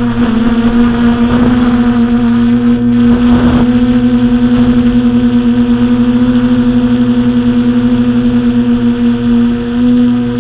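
TBS Discovery quadcopter's electric motors and propellers whirring at a steady pitch, the level wavering rapidly and evenly.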